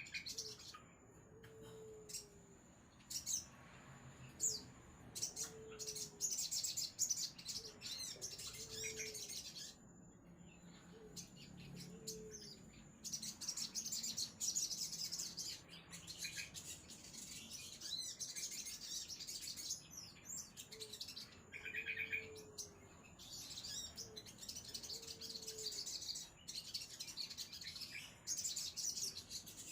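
Crimson sunbird (sogon) singing a rapid, very high-pitched twittering song in long bursts that break off and start again. Behind it a low short call repeats every second or so.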